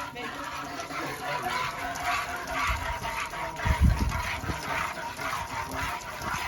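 Cow being hand-milked: a run of short, fairly regular squirts of milk into a pail, with a single low thump a little under four seconds in.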